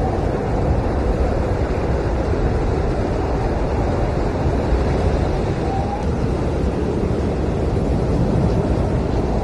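Blizzard wind howling in a steady, dense rush, with a faint brief whistle about six seconds in.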